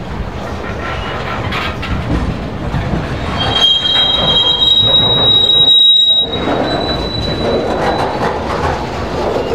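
Train's rail cars rolling past, with steady rumble and clicking of wheels over the rail. About three and a half seconds in, steel wheels start a high, steady squeal that lasts until near the end.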